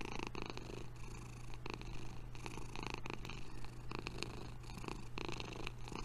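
Domestic cat purring steadily, close up, with irregular soft clicks of licking as one cat grooms the other's head.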